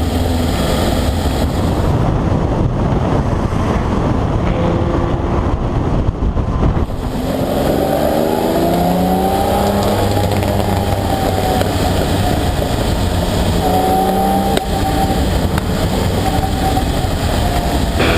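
Ferrari 375 MM V12 engine running on the road under heavy rushing wind noise. From about seven seconds in, it rises in pitch as it accelerates, then rises again a few seconds later.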